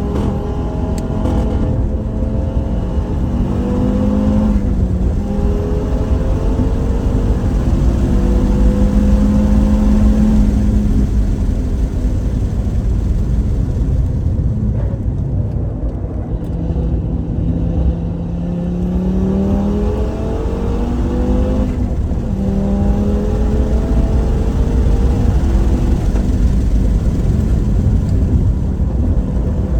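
Car engine under hard track driving, its revs climbing and falling several times as it accelerates and shifts, over a constant low road-and-wind rumble.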